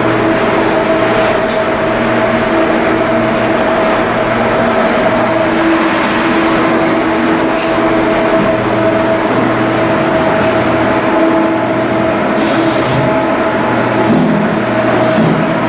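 A ship's diesel engine running: a loud, steady drone with a constant hum and no change in speed, with a few faint high clicks in the second half.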